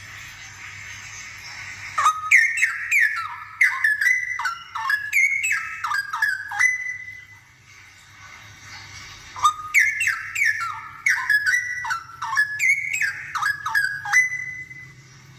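Straw-headed bulbul singing two loud phrases with a short pause between them. Each phrase is a quick run of whistled notes that glide down in pitch and ends on a held steady note.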